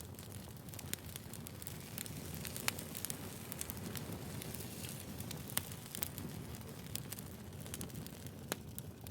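Wood fire crackling: a steady low hiss of burning logs with scattered sharp pops and snaps.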